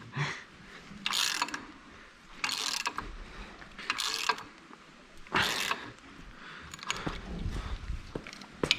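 Ratchet spanner clicking in short strokes, about one every second and a half, winding in bolts to jack a seized hub off an axle.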